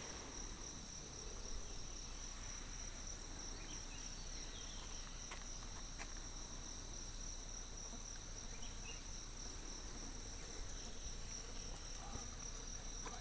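Steady, high-pitched chorus of jungle insects, an unbroken buzzing trill, with a few faint short calls scattered through it.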